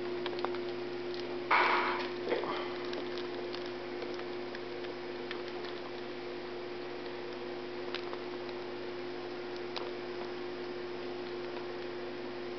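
Steady electrical hum with scattered faint clicks of a cockatiel nibbling Nesquik cereal. A short, louder noisy rustle comes about a second and a half in.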